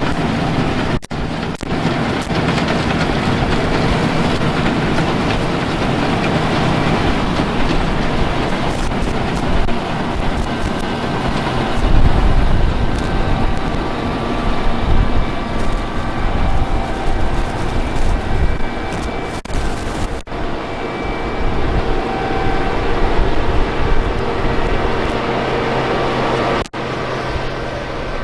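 Heavy harvest machinery running: a steady loud mechanical rumble and rattle, broken by a few abrupt cuts.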